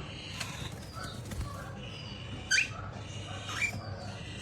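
Pet parrot giving short rising chirps: a loud one about two and a half seconds in and a second about a second later, with fainter chirps around them.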